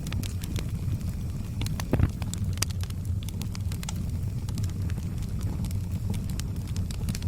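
Burning wood fire crackling: many irregular sharp pops and snaps over a steady low rumble of flame, with one louder pop about two seconds in.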